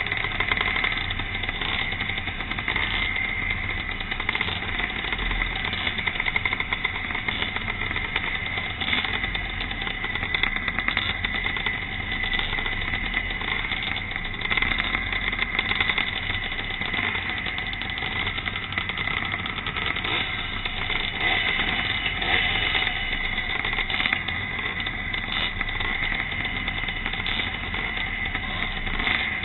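Pre-1965 motocross motorcycles' engines running during a race, a steady, continuous engine noise with no clear single rev-up.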